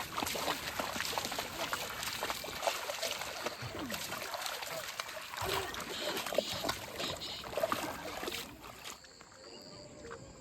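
Water splashing and trickling, with many small splashes. Near the end it cuts to a quieter outdoor background with steady high insect calls.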